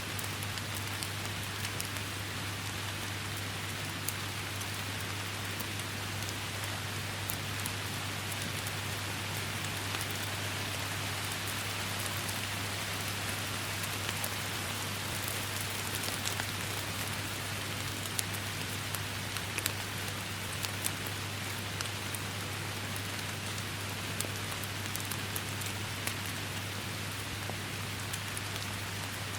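Steady heavy rain falling, with many individual drops striking close surfaces as sharp ticks over the even hiss, and a steady low hum underneath.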